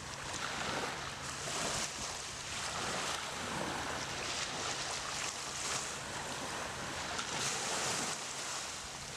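Small waves washing ashore in surges every second or two, with wind, over a faint steady low hum.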